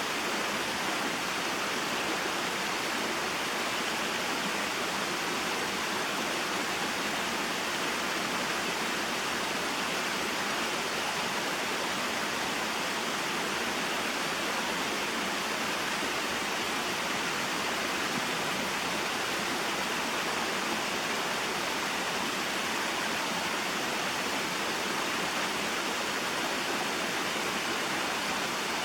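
Small mountain waterfall and stream: water spilling and rushing over rocks in a steady, even hiss without any break.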